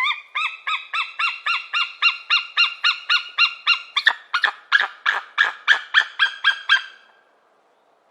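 Peregrine falcon giving its repeated 'kak-kak-kak' call, a long even run of about three to four notes a second. The notes turn rougher from about halfway, and the call stops about seven seconds in.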